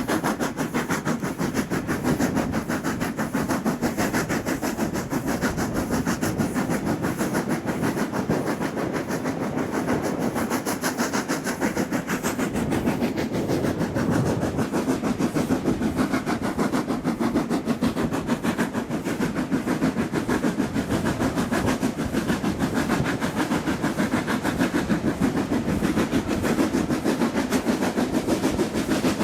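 Steam-hauled train running steadily, with a fast, even rhythmic beat. A faint high hiss stops about twelve seconds in.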